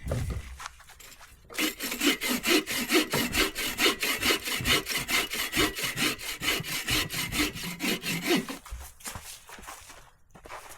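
A saw cutting through wood in quick, steady back-and-forth strokes, starting about a second and a half in and stopping near the nine-second mark.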